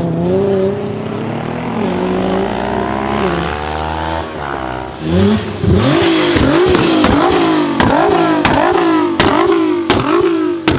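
Nissan GT-R R35 twin-turbo V6 with an Akrapovic exhaust: the engine note first climbs as the car accelerates and then falls away. About five seconds in, the stationary car is revved in quick blips, roughly one every 0.7 seconds, each blip followed by sharp exhaust pops, the backfires that throw the flames.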